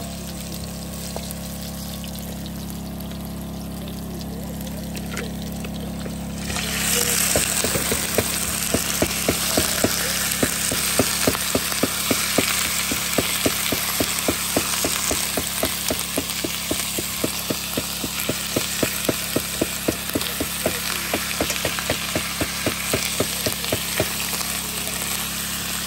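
A steady low hum, then about six seconds in a sudden loud sizzle as rabbit meat hits the hot oil in a wok. From about eight seconds on, a spatula scrapes and knocks against the wok about three times a second over the continuing sizzle.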